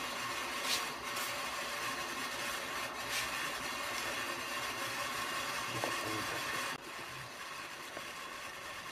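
Electric kettle heating water with a steady rushing hiss that cuts off suddenly about seven seconds in. A few light clicks and crinkles of packaging come in the first few seconds.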